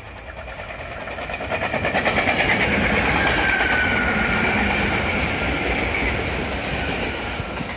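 SEPTA Regional Rail electric multiple-unit train passing close by. It grows louder over the first two seconds, holds with a quick, regular clatter of wheels over the rails, then eases off near the end.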